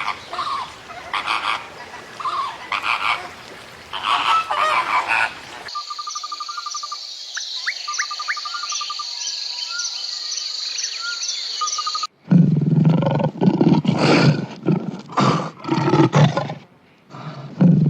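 A run of animal-call recordings: pitched animal calls first, then birds singing over a steady high trilling background. About twelve seconds in, a series of loud, deep calls starts, of the kind a roaring big cat makes.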